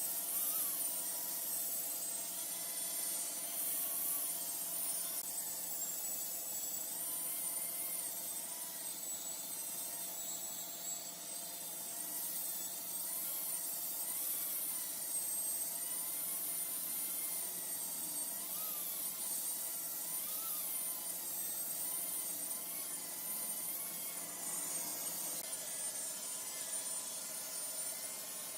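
Giant wood lathe running with a turning tool cutting the spinning wood: a steady motor hum under a high scraping whine that wavers in pitch.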